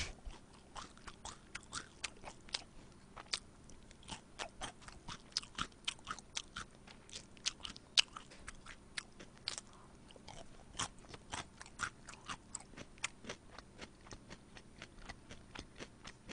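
Close-miked chewing of soy-sauce-glazed fried chicken: a run of small, sharp crunching clicks, several a second and irregular, at a low level.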